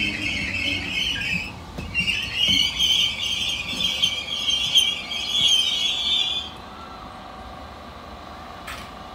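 DART electric commuter train squealing loudly and high as it slows at the platform. The squeal breaks off for a moment about a second and a half in, then stops about six and a half seconds in, leaving a low steady hum.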